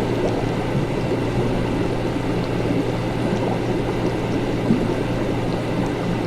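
Laboratory ambience: liquid bubbling and gurgling continuously over a steady low machine hum.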